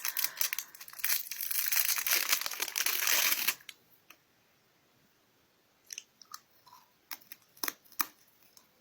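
Plastic snack wrapper being torn open and crinkled for about three and a half seconds, then a few short crunches as a crisp rice cake snack is bitten and chewed.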